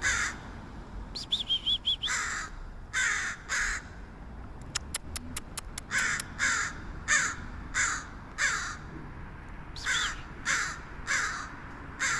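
Crow cawing over and over in short, harsh calls. It also gives an odd wavering, warbling call and a rapid run of about eight sharp clicks between the caws.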